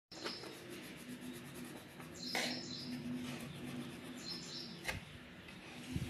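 Small birds chirping a few times in short high bursts over a faint steady hum, with a sharp tap about five seconds in.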